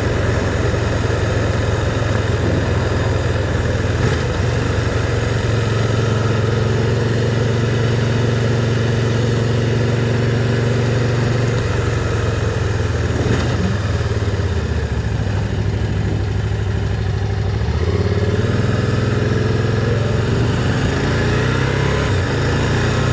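Can-Am Spyder three-wheeled motorcycle engine running while riding through town, a steady low note that shifts in pitch a few times as speed changes.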